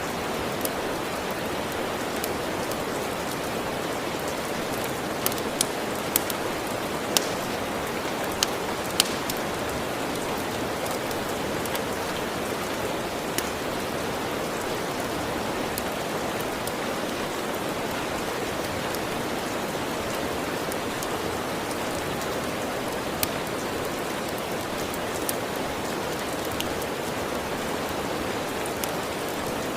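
Steady, even rain, with occasional sharp pops of a crackling wood fire, a cluster of them between about five and nine seconds in and a few more later.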